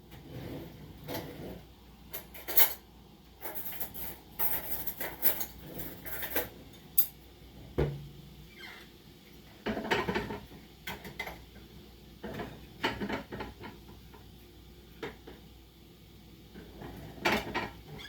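Dishes and cutlery clattering and clinking at irregular intervals as breakfast is being made, with a few sharper knocks among them.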